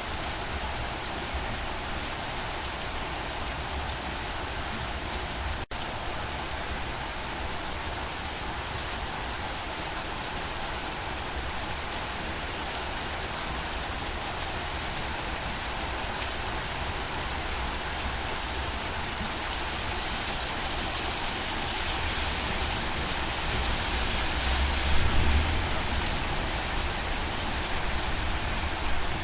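Steady rain falling, an even hiss of drops on surfaces. A brief low rumble rises out of it about four-fifths of the way through.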